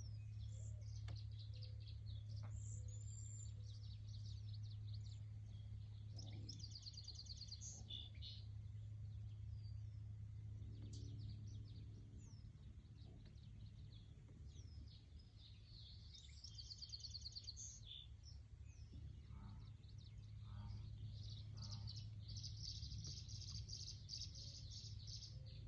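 Songbirds chirping and calling, with many short high notes throughout and a rapid trill three times, over a steady low rumble.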